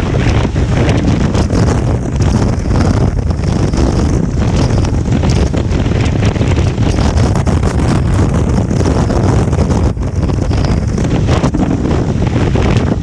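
Strong wind buffeting the microphone on a moving Honda Transalp 750 motorcycle: a loud, continuous low rumble full of crackling gusts, with no clear engine note standing out.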